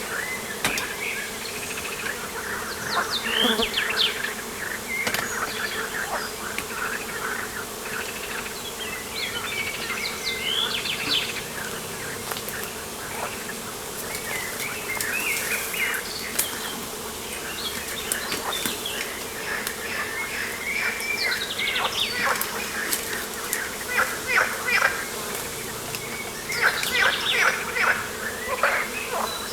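Steady buzzing of flying insects, with many short bird chirps and calls over it, busiest about 3 to 5 seconds in, around 10 seconds, and near the end.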